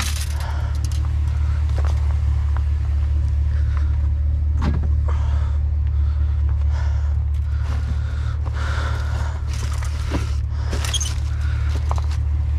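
A steady low drone throughout, with scattered clanks and rattles of scrap being shifted about in a metal dumpster.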